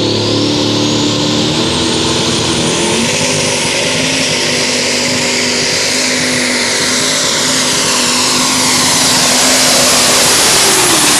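A pulling tractor's V8 Caterpillar alcohol-burning diesel runs flat out under load. Its turbocharger whine climbs to a high, steady scream within the first two seconds and holds over the engine's note, then starts to fall right at the end.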